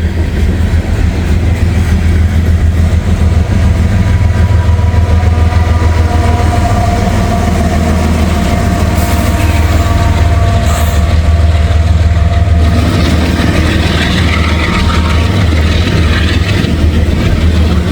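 A diesel-electric DPU locomotive in a freight train passing close by, its engine running with a loud, steady low drone. Toward the end the freight cars roll past with a rougher rumble.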